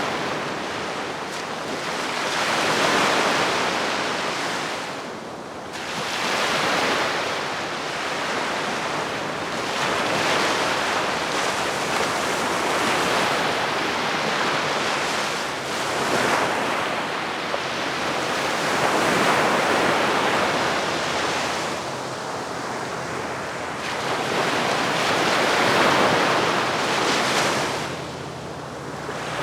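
Gentle sea waves washing onto a beach, the surf swelling and falling back every few seconds. Light wind noise on the microphone.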